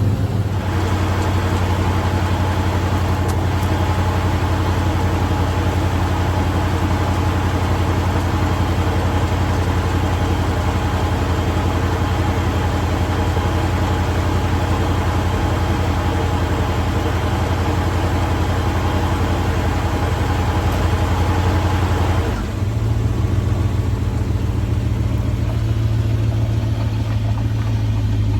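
Chevelle's small-block V8 idling steadily. About three quarters of the way through the sound changes, the higher part dropping away while the low hum rises slightly.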